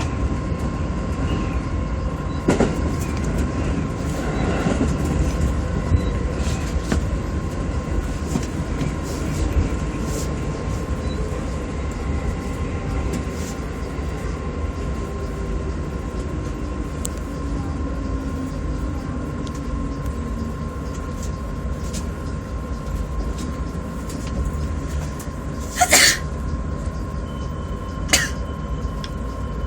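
Electric commuter train running and slowing as it nears a station, heard from inside the front car: a steady rumble of wheels and motors with a whine that falls in pitch as it slows. Near the end come two short, sharp screeches about two seconds apart.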